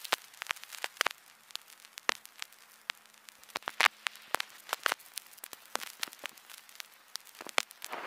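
Vinyl record surface noise with no music: irregular pops and clicks over a faint hiss, with a faint steady low hum.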